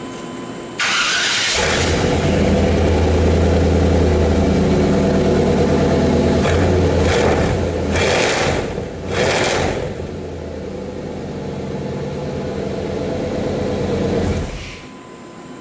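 A 1995 Chevy Silverado's small-block V8 is cranked on the starter and catches, running through a freshly installed catalytic converter and Y-pipe dual exhaust. It is revved up briefly a couple of times, settles to an idle, then is switched off near the end. The exhaust note is pretty mean and a little on the loud side.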